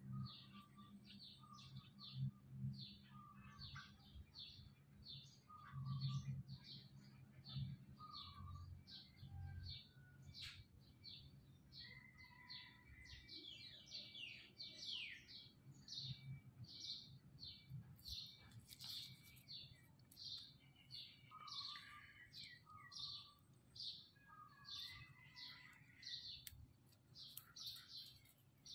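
Small birds chirping in quick, repeated short high notes, about two or three a second, with a few lower whistled notes mixed in. A low, muffled rumble comes and goes during the first ten seconds.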